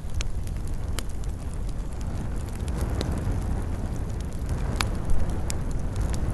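Campfire burning: a steady low rumble of flames, with wood crackling and about five sharp pops scattered through it.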